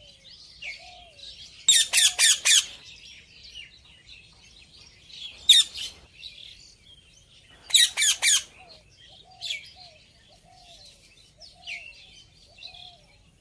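Indian ringneck parrot calling: a quick run of four or five loud, shrill calls about two seconds in, a single call near the middle, and three more in quick succession a little later, with softer chattering between them.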